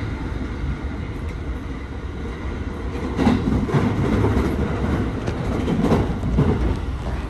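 Electric train running, heard from inside the passenger car: a steady rumble of wheels on rail, with a run of knocks from the wheels on the track between about three and six and a half seconds in.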